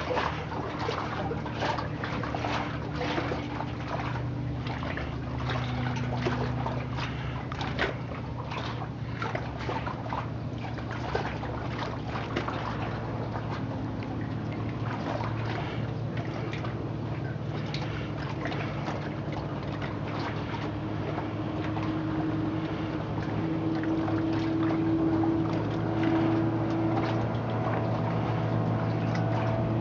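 Cessna 182 floatplane's piston engine and propeller droning steadily at a distance, growing louder over the last several seconds, with water sloshing and trickling close by.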